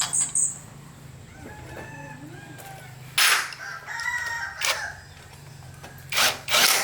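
A rooster crowing, with short loud hisses about three seconds in and twice near the end.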